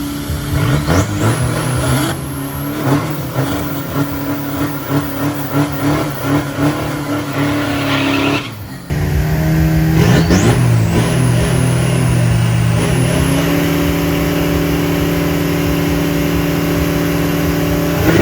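Drag race car engines running hard. In the first half the revs rise and fall in pulses; after an abrupt break about nine seconds in, an engine holds a steady pitch.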